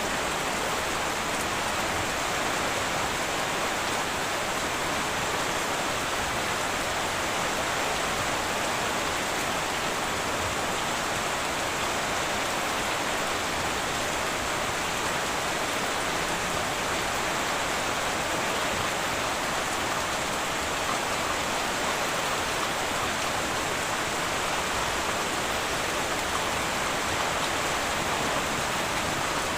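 Heavy rain falling steadily on a metal roof, an even hiss that does not change.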